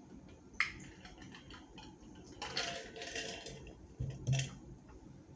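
Mukbang eating sounds: wet chewing and mouth clicks, with a short noisy stretch in the middle and a soft knock of dishes or cutlery about four seconds in.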